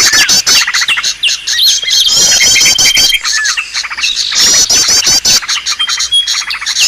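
Bird-lure track: a dense, loud mix of many small birds' chirps, trills and whistled calls layered together. It includes a held high whistle and rapid chattering, and the same short block of calls loops about every two and a half seconds. The track is played to draw wild birds in.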